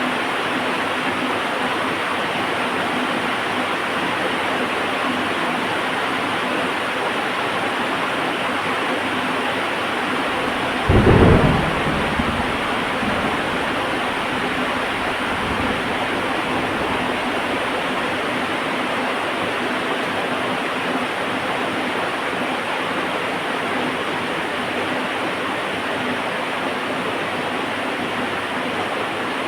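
Heavy rain falling steadily, with a sudden clap of thunder about eleven seconds in that rumbles away over the next several seconds.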